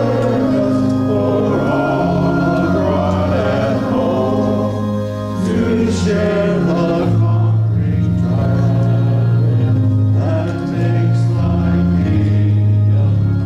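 Congregation singing a hymn in unison with organ accompaniment, long held notes moving from chord to chord.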